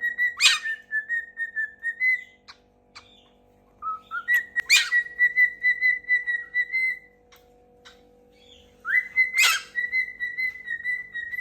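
Three long whistles held on one slightly wavering pitch, each opening with a short rising glide and a sharp chirp, from a pet galah cockatoo.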